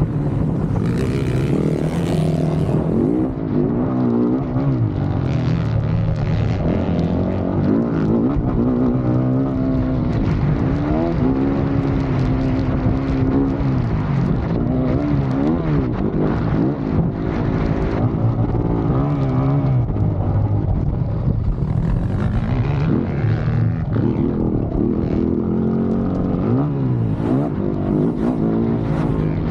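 Dirt bike engine revving hard, its pitch rising and falling again and again as the throttle is worked on and off through the gears.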